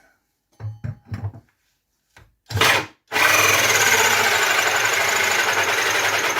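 Cordless drill drilling a hole: a few short bursts of the trigger, then a steady run of about three seconds near the end.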